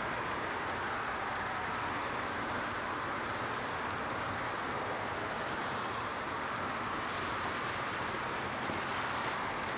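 Steady rushing of water and wind on the microphone by a waterway, with no distinct engine note or single event standing out.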